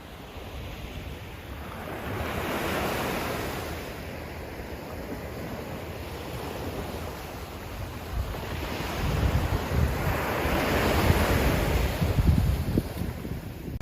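Sea waves surging and washing onto a beach, swelling twice, with wind gusting on the microphone.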